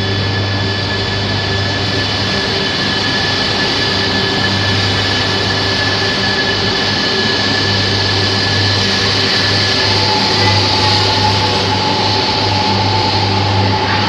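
E3-series Tsubasa Shinkansen pulling out of the platform, running with a steady hum and whine made of several constant tones. About ten seconds in a high tone drops away and a new whine sets in, rising slowly in pitch as the train gathers speed.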